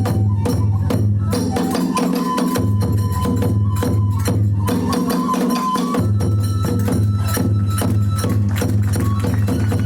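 Kagura hayashi ensemble playing: drums struck in a quick, driving rhythm with clashing small hand cymbals, and a bamboo flute holding long high notes over them.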